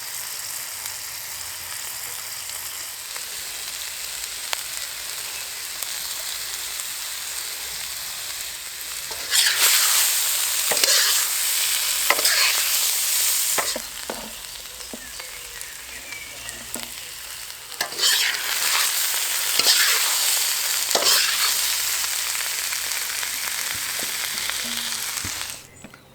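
Food deep-frying in hot oil: a steady sizzling hiss that swells into louder, crackling sizzling twice, about ten seconds in and again about eighteen seconds in.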